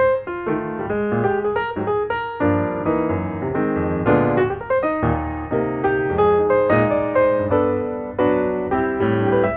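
Background piano music: chords and a melody line, with notes struck every half second or so.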